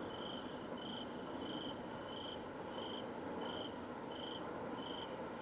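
A cricket chirping steadily, about one and a half high chirps a second, over a continuous even noise that does not rise or fall. The recordist hears that noise as coming from the sky to the east and cannot identify it.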